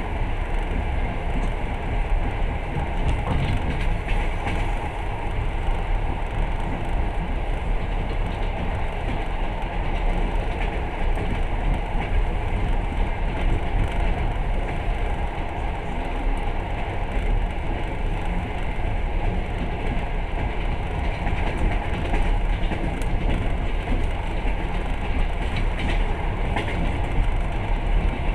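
Passenger train running along the line, heard from inside the carriage: a steady rumble of wheels on rails with a few faint clicks from the track.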